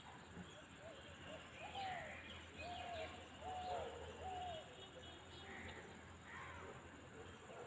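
Outdoor birdsong: a series of four short, low, arched calls about a second apart, with scattered higher chirps from other birds. A faint steady background hum lies beneath.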